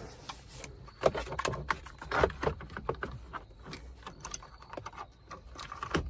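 Hands working wiring and plastic interior trim panels: irregular clicks, taps and rustles, the sharpest about one and two seconds in.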